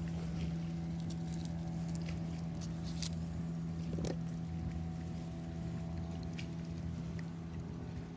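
A steady low engine drone, running evenly, with scattered light clicks and crackles over it.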